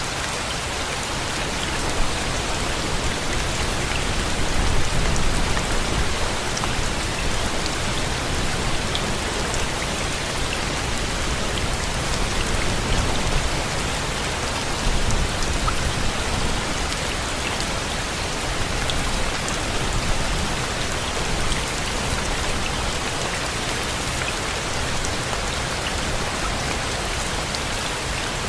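Steady rain, with single drops ticking through the hiss. A low rumble swells up a few times.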